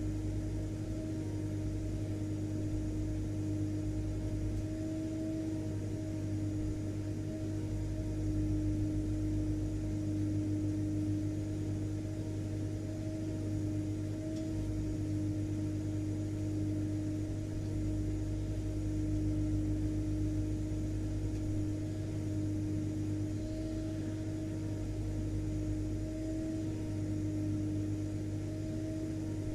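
Vacuum cleaner motor running continuously: a steady drone with a constant pitched whine that never changes in pitch or level.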